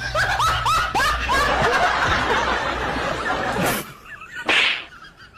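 A person laughing hard, a quick run of rising-then-falling 'ha' sounds that stops suddenly, then a short sharp noise about a second later.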